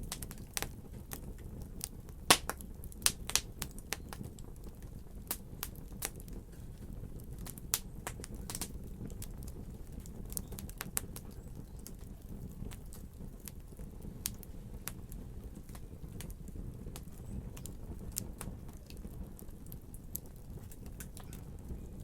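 Wood fire crackling: a steady low rumble of burning with irregular sharp pops and snaps, the loudest in the first few seconds.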